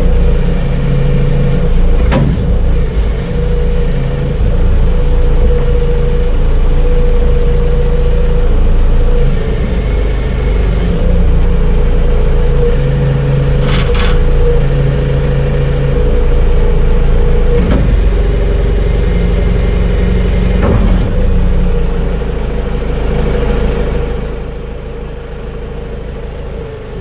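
Tractor engine running steadily, with a few sharp clanks, dropping quieter a few seconds before the end.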